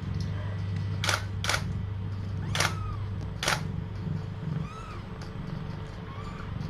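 Camera shutter clicking four times, a quick pair about a second in and two more a second apart, over a steady low hum.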